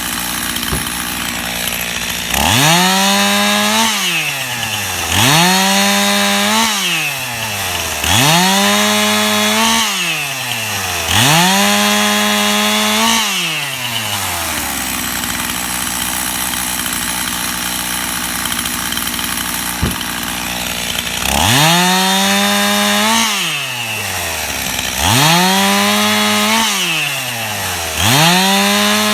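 Stihl gas chainsaw cutting limb wood into firewood lengths. The engine revs up for each cut, holds for about a second and a half, then drops back to idle. There are four cuts in quick succession, a stretch of idling, then three more.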